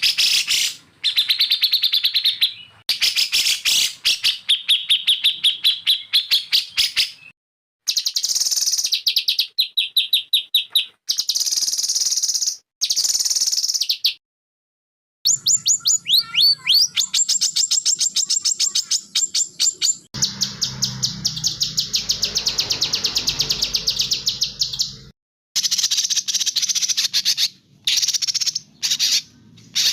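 Songbirds singing: fast chattering trills and rapid runs of high chirps, in separate stretches broken by several short, abrupt silences.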